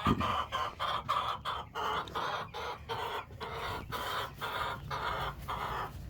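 Broody hen clucking in a rapid run of short, repeated calls, about three a second: the scolding of a broody hen disturbed on her nest.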